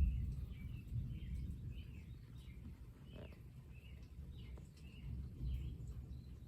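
Birds chirping in short, scattered calls over a low, steady rumble, with a brief bump right at the start.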